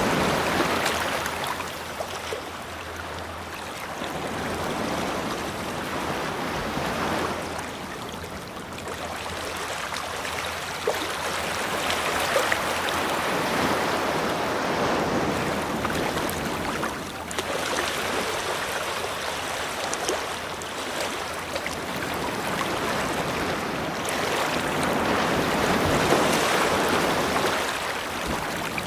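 Ocean waves breaking and washing up the shore, the surf hiss swelling and ebbing every few seconds.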